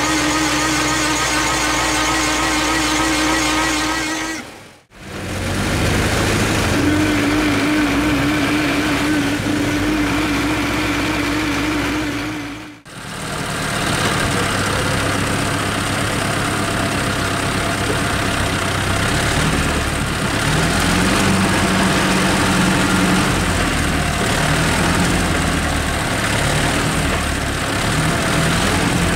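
Tractor diesel engines running steadily, heard across three separate shots with brief cuts between them.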